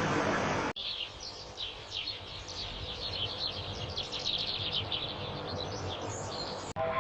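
Birds chirping, many quick overlapping calls high in pitch. Before them, a steady rushing noise cuts off abruptly under a second in.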